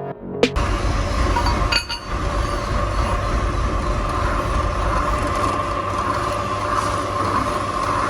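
Steady workshop machine noise with a constant hum and low rumble, and a single metallic clink about two seconds in.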